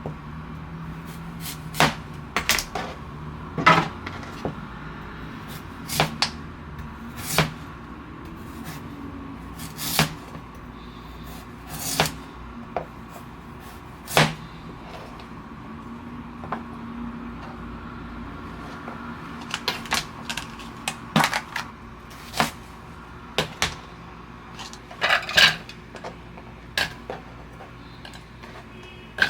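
Kitchen handling sounds: scattered clicks, taps and knocks of dishes, utensils and cupboard doors, irregularly spaced, over a low steady hum.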